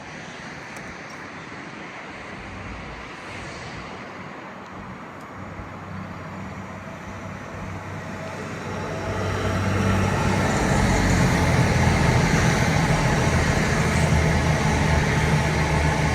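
A train running through the station, its engine rumble and running noise building steadily from about halfway in until it is loud near the end.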